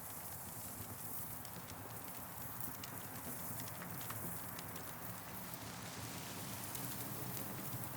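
Wood campfire crackling: frequent small, irregular pops and snaps over a steady hiss.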